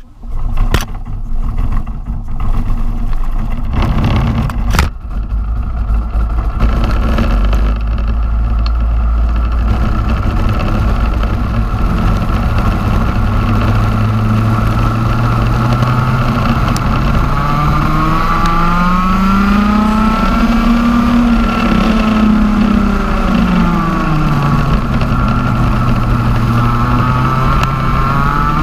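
TM 125cc two-stroke OK-class kart engine, with a few loud knocks in the first five seconds. It runs at steady low revs, then climbs in pitch, drops back, and climbs again near the end as the kart accelerates and slows.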